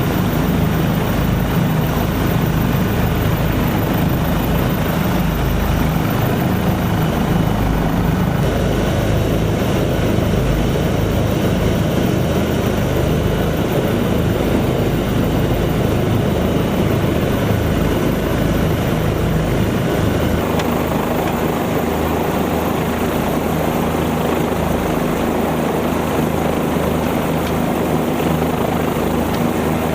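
Helicopter running with a steady, loud rotor and engine drone. The low hum shifts about two-thirds of the way through.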